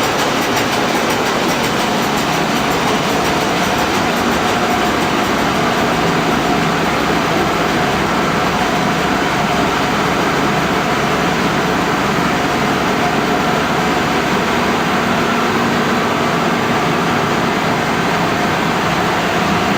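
A 45-year-old engine running steadily, a continuous mechanical clatter with no change in speed.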